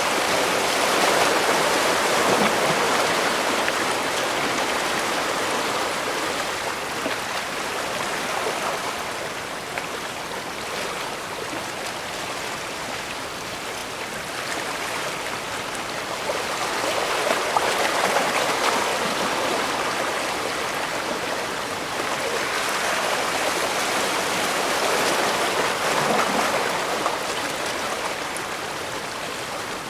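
Sea waves washing in at the bay's edge: a continuous rush of water that swells and fades in slow, uneven surges.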